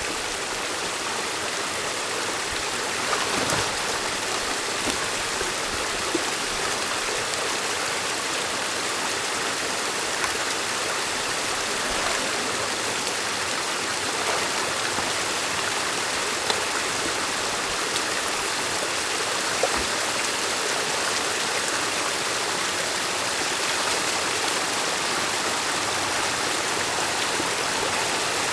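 Stream water rushing steadily through a beaver dam being opened by hand. A few faint brief knocks sound over the flow.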